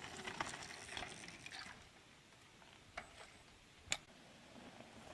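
Faint mountain bike riding sounds on a dirt trail: scattered crackling clicks of tyres and bike over dirt, then quieter, with two sharp clicks about three and four seconds in.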